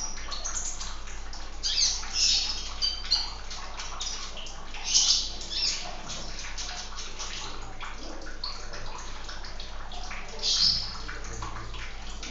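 Steady running, splashing water with a small bird, a sunbird, chirping in short high bursts a few times over it.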